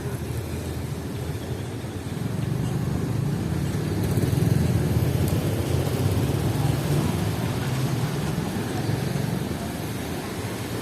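City street traffic: a motor vehicle's low engine rumble swells about two seconds in, is loudest near the middle, then eases off as it passes.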